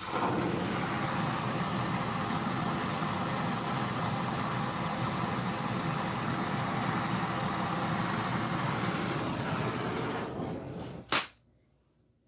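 Heavy-duty melting torch running with a steady hiss, dying away about ten seconds in. It is followed by a single loud, sharp click.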